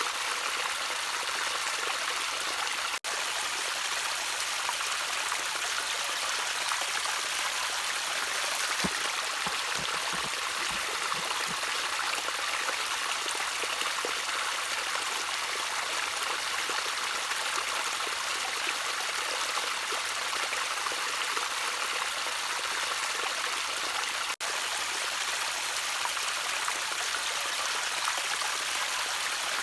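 Gently trickling water, a steady, even rush with no let-up. It cuts out for an instant twice, about three seconds in and again later on.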